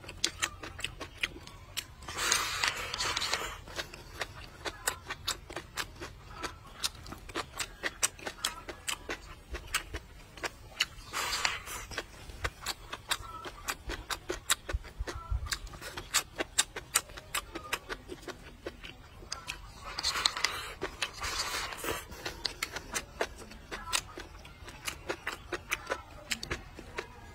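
Close-up chewing of crunchy food: a steady run of quick, sharp crunches and wet mouth clicks. There are a few louder, longer noisy bursts about two, eleven and twenty seconds in.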